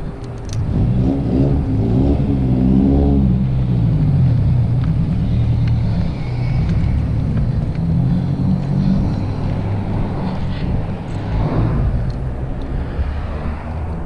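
A car passing close by, its engine note rising and falling about one to four seconds in, with more traffic noise and a low rumble after.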